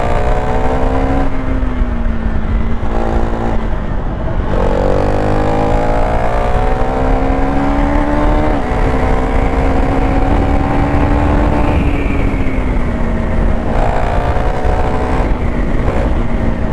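KTM Duke 390 Gen 3's single-cylinder engine under way, its revs climbing and then dropping sharply several times as it shifts through the gears, over a heavy rush of wind noise.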